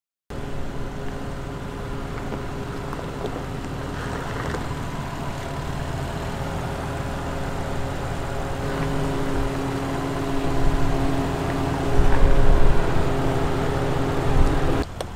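Land Rover Defender's 5.0-litre supercharged V8 running at low, steady revs while crawling over rock, with heavier low rumbling about ten and twelve seconds in. The sound drops off sharply near the end.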